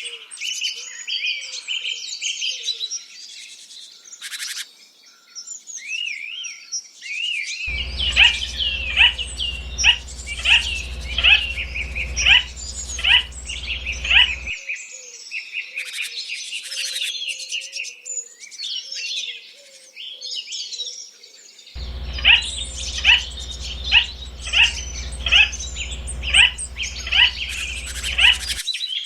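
Several birds chirping and singing together. Twice, a loud call repeats at an even pace of about one to two sweeping notes a second for several seconds, with a low hum beneath it.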